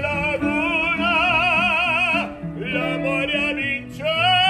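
Operatic-style singing with wide vibrato over an instrumental accompaniment. A long held note is followed by a short phrase, and a new held note begins near the end.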